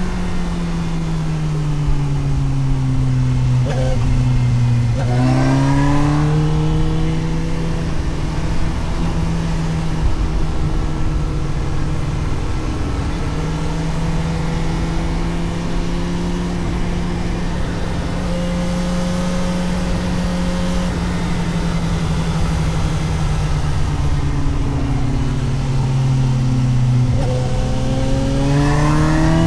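Suzuki GSX-S750's inline-four engine heard from onboard the moving motorcycle. The engine note falls as the bike slows, rises sharply about five seconds in, holds steady for a long stretch, falls again, and revs up hard near the end, with steady wind rush underneath.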